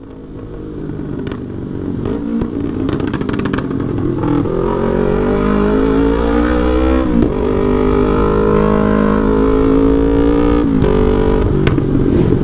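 Yamaha R3's 321 cc parallel-twin engine through a Full Pro aftermarket exhaust, with a remapped ECU, running under throttle. It grows louder over the first few seconds and climbs slowly in pitch, and the pitch drops sharply twice, around seven and eleven seconds in.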